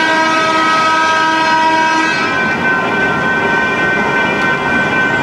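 A train passing over the crossing, with a steady chord of several high tones over the continuous noise of its rolling wheels. The lowest tones drop out about two seconds in.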